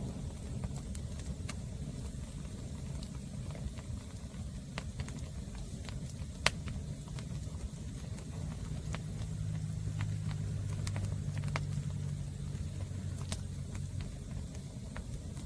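Green firewood burning, crackling with scattered sharp pops over a low rumble. From about eight seconds in, a steady low engine hum joins it for several seconds.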